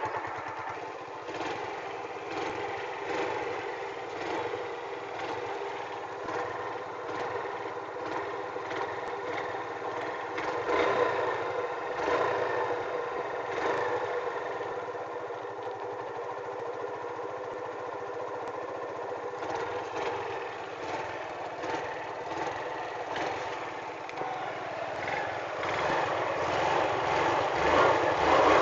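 Jialing 175 motorcycle engine running steadily, briefly louder about eleven seconds in and getting louder near the end.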